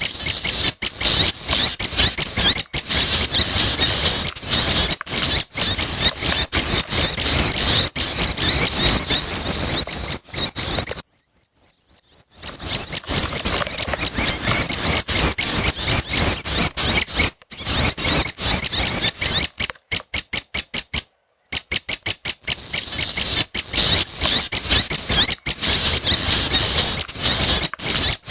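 Young prenjak (red-headed prenjak) begging: a loud, rapid run of high, squeaky chattering calls. The calls stop for about a second and a half midway and break off briefly again later.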